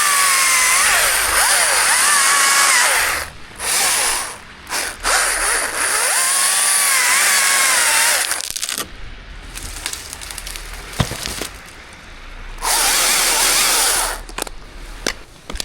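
Chainsaw running at full throttle in long bursts, its pitch wavering up and down under the load of the cut. It drops back between bursts, with a quieter spell in the middle and one more short burst near the end.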